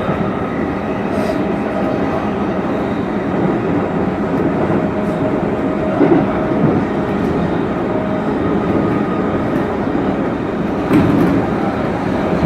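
Hokuso Railway 9100 series electric train running at speed, heard from inside the front car: a steady rumble of wheels on rail, with two heavier knocks from the track about six seconds in and near the end.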